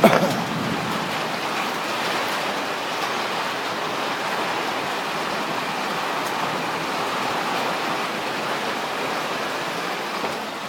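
Heavy rain falling in a steady downpour, with a brief sharp thump right at the start.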